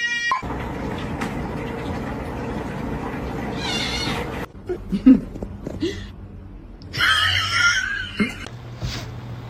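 A cat meowing, with a longer wavering call about seven seconds in.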